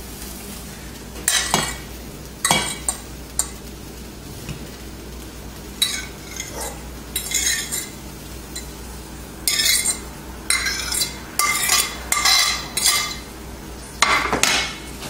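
Cooking utensil scraping and clinking against a pan, about ten short strokes at uneven intervals, over a steady low hum.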